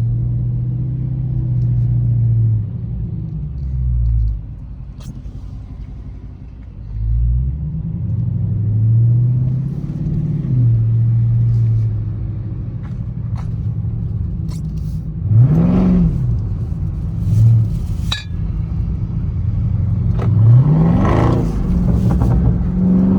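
Dodge Charger Scat Pack's 6.4-litre (392) HEMI V8 running under way, its pitch rising and falling with the throttle. Late on come two quick sharp revs that rise and drop straight back.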